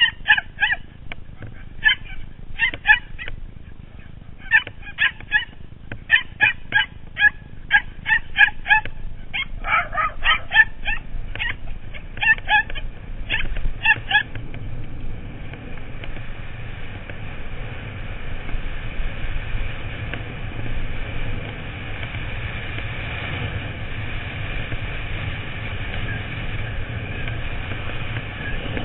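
Small dogs yapping in quick, high-pitched barks, several a second, during a chase. About halfway through the barking stops and a steady rushing noise with a low rumble takes over.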